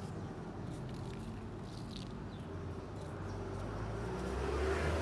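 Low engine rumble of a passing vehicle, growing louder over the last two seconds as it comes closer, with a faint high chirp about two seconds in.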